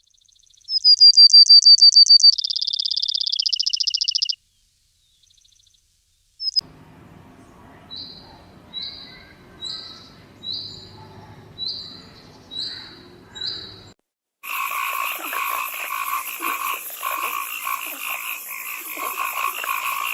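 A run of separate animal calls: first a rapid series of high chirps, then seven evenly spaced high chirps about one a second, and then, from about halfway through, a dense chorus of frogs calling.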